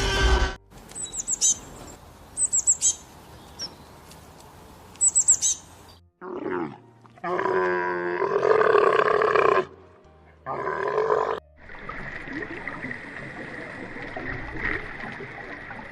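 A run of different animal calls, one after another. Quick little groups of very high bird chirps come first. From about six seconds in there are three louder, drawn-out pitched animal calls, the middle one the longest and loudest. A steady background hiss follows to the end.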